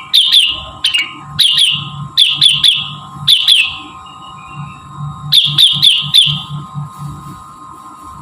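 Rengganis (cucak wilis) song: sharp downslurred chirps, mostly in quick runs of two or three, repeated with short pauses and a longer gap about four seconds in. A steady high hum sits underneath.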